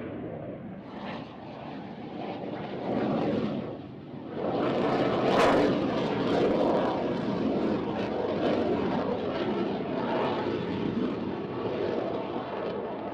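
Aircraft engine noise from an arriving plane, growing louder about four seconds in, loudest a little later, then holding steady.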